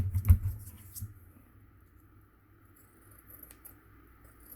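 Cardboard and cardstock craft pieces handled and set against each other on a table: a quick cluster of taps and knocks in the first second, then faint scraping and rustling.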